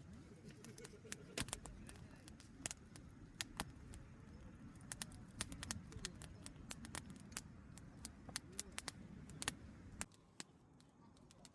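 Wood campfire crackling, with many irregular sharp snaps and pops over a low background rumble that drops about ten seconds in.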